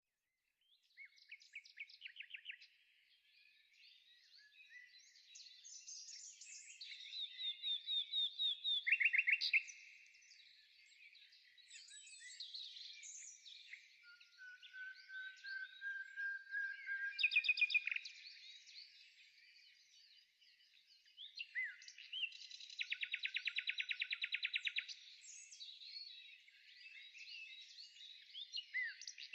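Songbirds singing: a mix of chirps, whistles and rapid trills, with a slow rising whistle a little past the middle and a long, fast trill about three-quarters of the way through.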